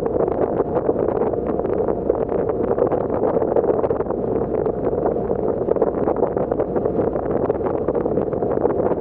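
Wind buffeting the microphone over the steady rushing noise of a passenger ferry under way.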